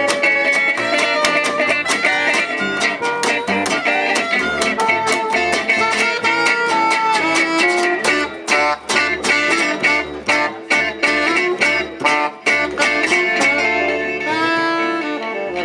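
Gypsy jazz (jazz manouche) band playing live, with a guitar strumming a fast, even rhythm under a melody line. Near the end the strumming thins out and a few notes slide in pitch.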